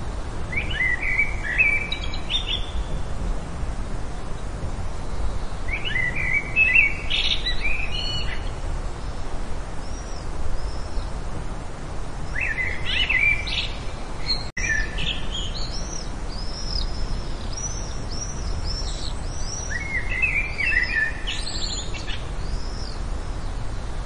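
Birds singing: a short, quick warbling phrase comes four times, with thin high chirps in between, over a steady low background rumble.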